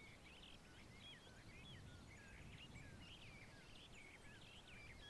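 Faint chirping of birds: many short, overlapping calls going on continuously.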